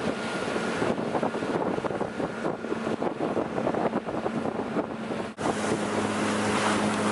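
Motorboat running at speed, a steady engine hum under wind buffeting the microphone, with irregular knocks of the hull bouncing over choppy water and boat wakes. A brief dropout about five seconds in, after which the engine hum is plainer.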